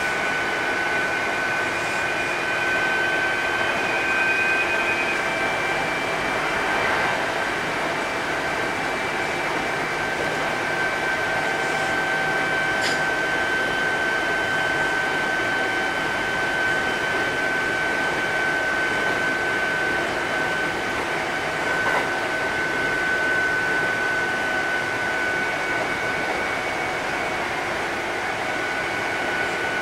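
Kintetsu 8000 series electric train running at steady speed, heard from inside the car: an even running rumble with a steady high whine held throughout and a couple of faint clicks.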